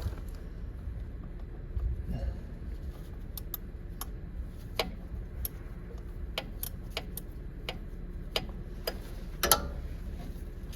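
Ratcheting wrench clicking in short, irregular strokes as it works a 17 mm bolt on the fuel filter, with a louder click near the end.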